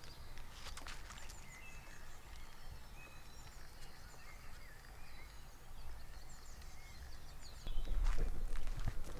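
Several wild birds singing and chirping together, many short rising and falling whistles, over a low background rumble. Near the end a louder rustling with soft thuds comes in.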